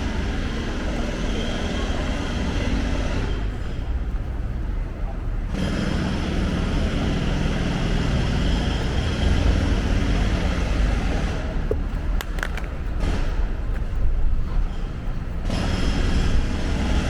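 City street ambience: a steady low rumble of traffic with voices of passersby, and a few sharp clicks about twelve seconds in.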